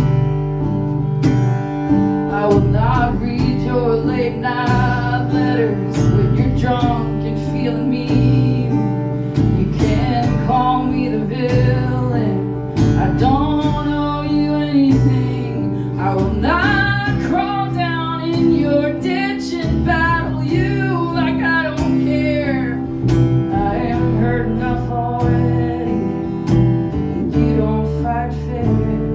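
Live acoustic music: an acoustic guitar strumming chords, with a melody line that bends and slides in pitch above it through most of the passage and drops out near the end.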